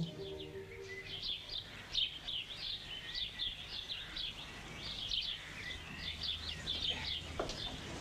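Songbirds chirping: a quick, continuous run of short, high chirps.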